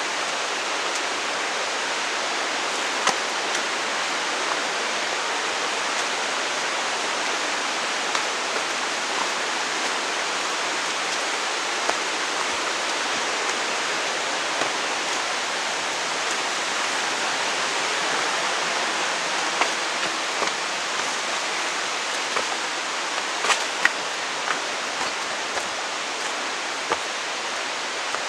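Waterfall: the steady rush of falling water, even and unbroken, with a few brief clicks over it, the strongest near the end.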